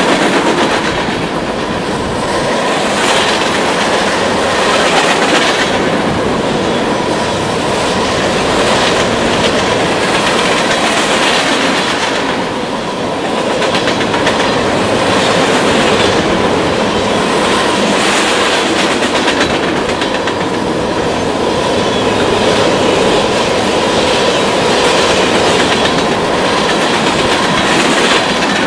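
Empty crude oil tank cars of a freight train rolling past, steel wheels clicking and rumbling over the rails, with a faint steady wheel squeal.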